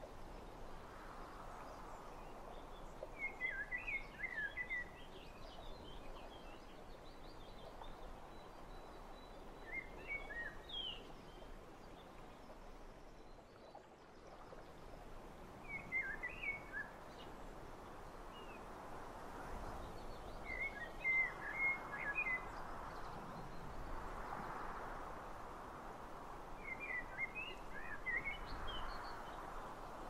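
A small songbird sings short twittering phrases five times, one roughly every five to six seconds. Under it is a steady rushing outdoor background that grows louder in the second half.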